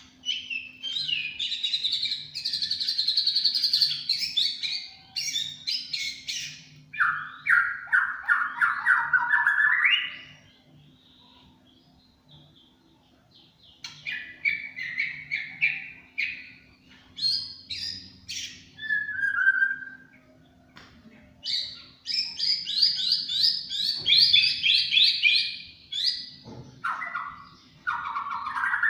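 White-rumped shama singing loud phrases of rapidly repeated notes. High, fast series alternate with lower, fuller phrases, with a pause of a few seconds about a third of the way in.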